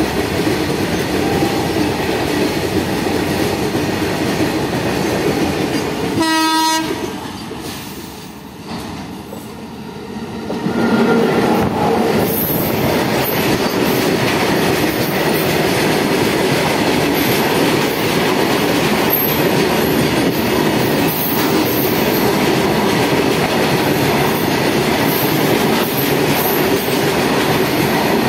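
Freight wagons rolling past over jointed track with steady rumble and clatter. A short train horn blast sounds about six seconds in. After a brief lull, a second freight train's wagons pass close by, louder, with high-pitched wheel squeals in the middle.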